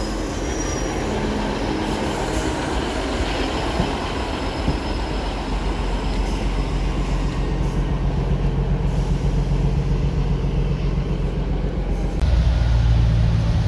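Class 158 diesel multiple unit running slowly along the platform and coming to a stand, wheel and rail noise under a steady diesel engine hum that grows as it stops. About twelve seconds in, a louder, deeper engine hum cuts in suddenly.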